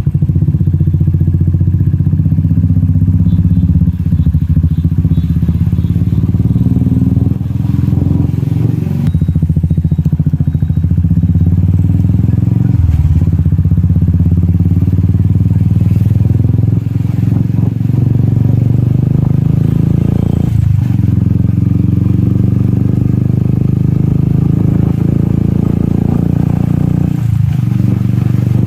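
Royal Enfield Classic 350's single-cylinder engine running through a loud exhaust while riding on the road. The note holds steady, with brief dips a few times as the throttle eases.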